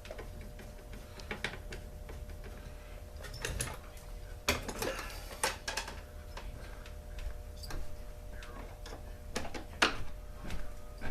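Irregular clicks, taps and knocks of tools and hard plastic and metal chainsaw parts being handled during a teardown, with a sharper knock about four and a half seconds in and another near ten seconds.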